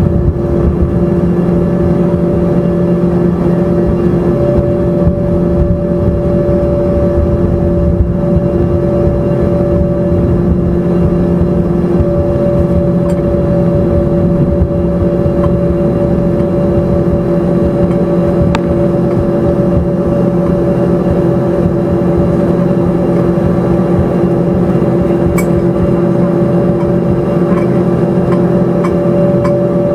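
Embraer ERJ-145's rear-mounted Rolls-Royce AE 3007 turbofan engines heard from inside the cabin: a loud, steady roar with a constant hum of several steady tones.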